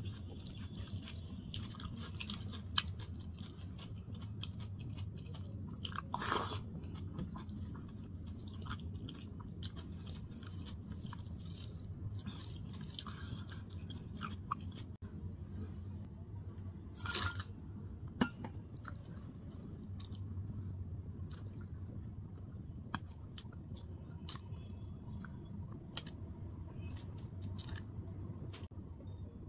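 Close-up chewing and mouth sounds of a person eating daal and rice by hand, with a few louder crunches and many small clicks over a steady low hum.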